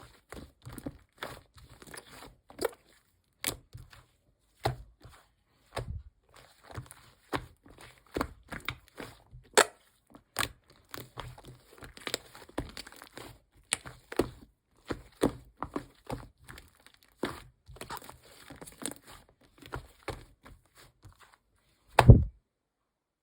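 Hands handling paper and plastic: irregular crinkling, rustling and light taps and clicks, with one loud, heavy thump near the end.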